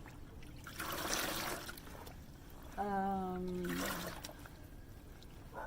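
Dye-bath liquid trickling and splashing in two short bursts, about a second in and again just before the four-second mark, as a shirt is handled in the dye. A brief held 'mm' from a woman's voice comes between them.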